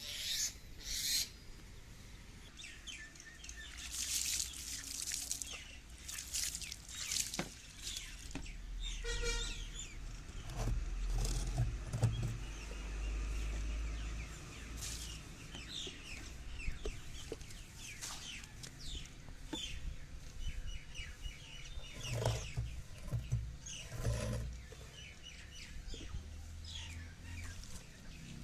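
Birds chirping in the background, many short calls with scattered clicks and knocks, and a low rumble for a few seconds in the middle.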